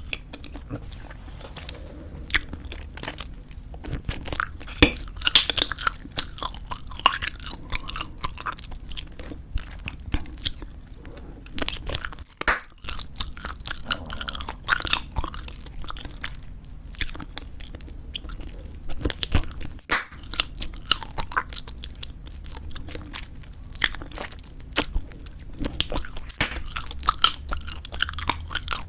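Close-miked ASMR gum chewing: squeeze-tube bubblegum being chewed, with a dense, irregular run of wet smacks and sharp clicks and a few brief pauses.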